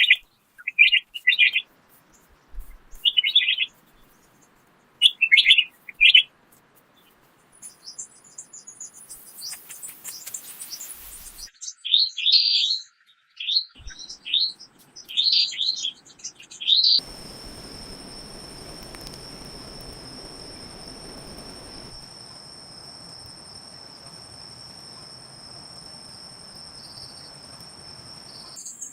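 Birds chirping in short bursts of quick repeated notes. A little past halfway this gives way to a steady, high-pitched insect trill, typical of crickets, over a faint hiss.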